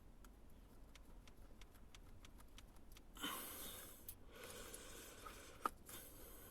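Faint clicks and rustling of parts being handled at close range. A louder rustle comes about three seconds in, and a single sharp click comes near the end.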